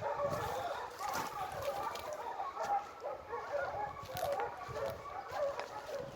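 A pack of Italian scent hounds (segugi) giving tongue, many overlapping yelping bays on the trail of a freshly flushed hare: the pack in full cry on the chase.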